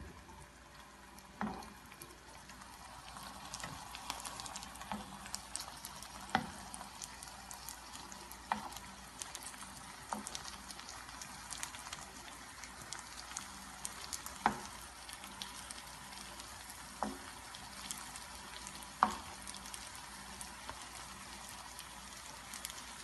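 Vegetable and egg nuggets shallow-frying in olive oil in a nonstick pan: a steady crackling sizzle with a sharp pop every two to three seconds.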